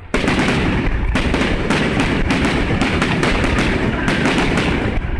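Fireworks display going off in a dense run of bangs and crackles, one after another with no let-up.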